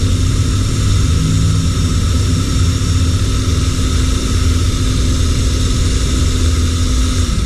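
Angle grinder fitted with a rotary wire brush, running steadily with a high whine over a low rumble as it scours carbon deposits out of a motorcycle cylinder head's combustion chamber.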